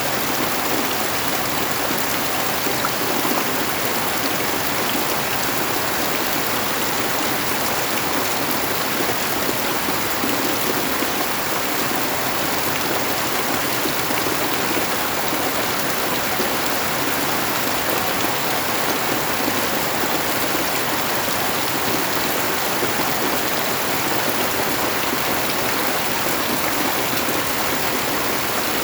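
Steady rain falling: an even, unbroken hiss of water that does not change.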